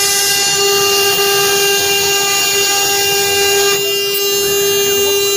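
CNC router spindle running with a steady high whine while its bit engraves wood, over the hiss of the cut. The cutting noise eases about four seconds in.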